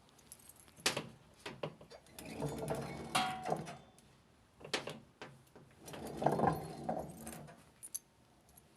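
Irregular clicks, knocks and rattling of metal parts and tools being handled, with two longer scraping, rattling spells, one about two seconds in and one about six seconds in.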